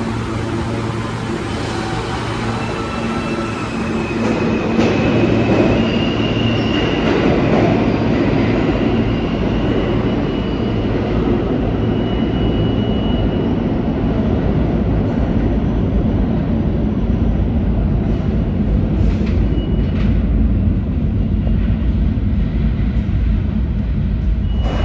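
A New York City Subway L train moving along the platform, its rumble growing louder about four seconds in and then holding steady. Steady motor tones sit under the rumble, with brief high wheel squeals now and then.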